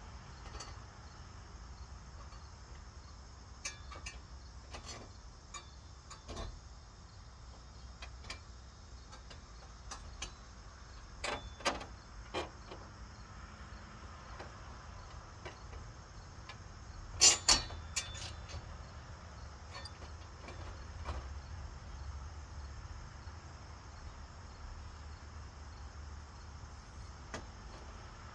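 Scattered knocks and clanks, a cluster about 11 to 12 seconds in and the loudest pair about 17 seconds in, over a steady low rumble.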